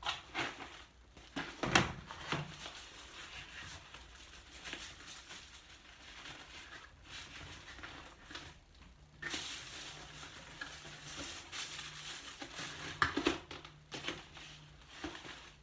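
Packing materials rustling and crinkling as items are put into a box, with a few sharp taps and knocks, the loudest about two seconds in and another near the end.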